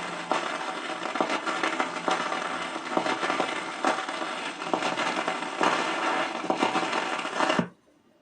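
Vinyl record surface noise: a steady hiss with frequent crackles and pops as the stylus runs in the groove with no music left, cutting off suddenly near the end.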